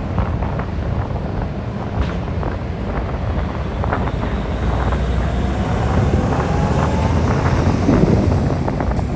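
Heavy truck engine rumbling as cargo vehicles drive off a car ferry, with a faint rising whine in the middle and scattered clanks. Wind buffets the microphone.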